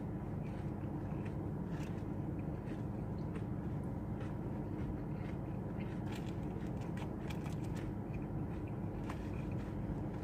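A person eating a burger and onion rings: scattered small crackles and clicks of chewing and handling food, over a steady low hum.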